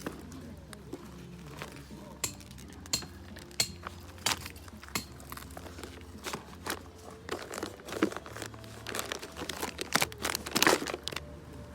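Irregular crinkling and rustling with scattered small clicks and knocks, densest and loudest near the end.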